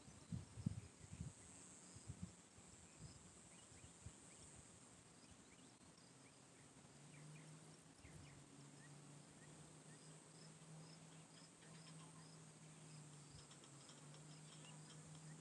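Faint early-morning outdoor ambience: a steady high insect drone with short chirps repeating at an even pace. A few soft low thumps come at the start, and a low steady hum comes in about halfway through.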